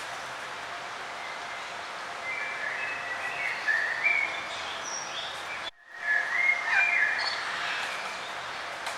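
Songbirds chirping and warbling in short phrases over a steady outdoor hiss, with a busier burst of song about two seconds in and again just past halfway. The whole sound cuts out for a split second just before halfway.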